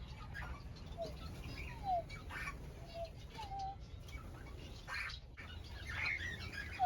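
Mixed aviary birds calling: a series of short whistled notes, several sliding downward, about a second apart, with fainter chirps in between.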